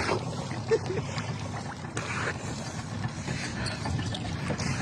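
Steady low rumble of a small boat on the river, with a few faint knocks.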